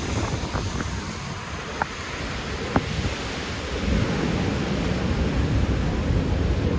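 Wind buffeting the microphone over the steady wash of heavy surf breaking below the cliffs, with a few light clicks in the first few seconds.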